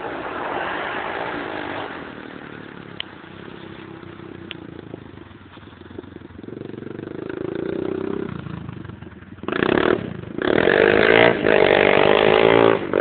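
250 cc motocross motorcycle engine revving up and down. It eases off in the middle, climbs again, then gives loud, close bursts of revving in the last few seconds.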